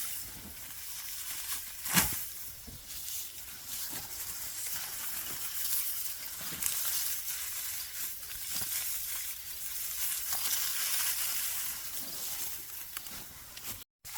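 Dry rice stalks rustling and crunching as they are cut and handled by hand, in uneven swishes, with one sharp knock about two seconds in.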